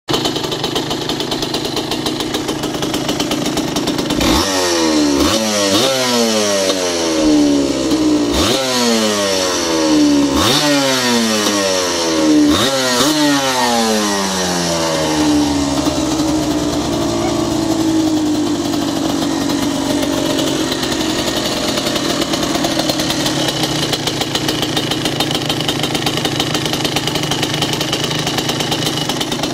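Yamaha WR200's two-stroke single-cylinder engine idling, then blipped about six times between roughly four and thirteen seconds in, the revs snapping up and falling back slowly each time. After the last blip it winds down and settles to a steady idle.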